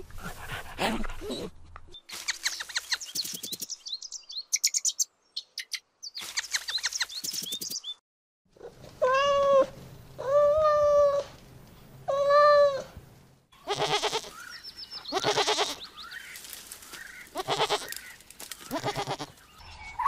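A run of different animal calls. It starts with a dog's short yips and then high chirping calls. About nine seconds in come three drawn-out cat meows of about a second each, followed by several shorter, harsher calls.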